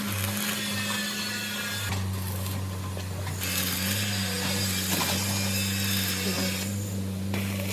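A power tool running with a steady hum, with a hiss that comes and goes as it works the material; the hiss breaks off briefly about three and a half seconds in and stops near the end.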